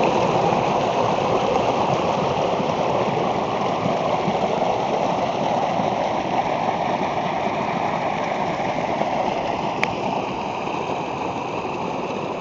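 Stream water running steadily, with a single sharp click about ten seconds in.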